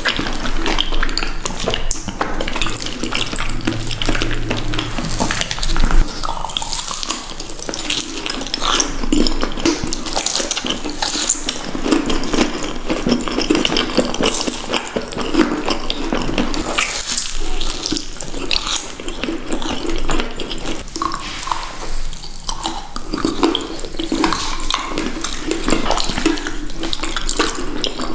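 Close-miked eating sounds: wet chewing and mouth smacks with many small clicks, dense and continuous.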